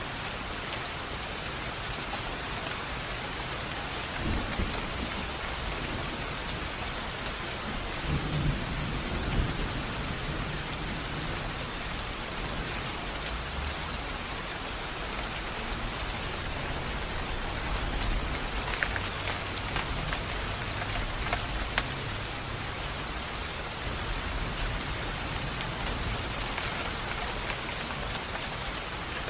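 Steady heavy rain falling, with low rolls of thunder rumbling in and out, strongest about eight seconds in and again near the middle.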